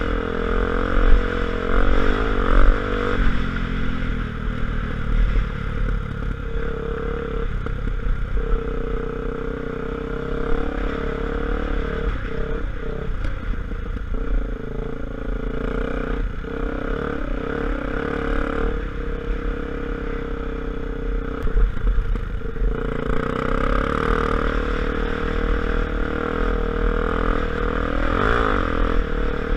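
Honda XR250 Tornado's single-cylinder engine running under way, its pitch rising and falling several times as the throttle is opened and closed, with a rattling clatter over it.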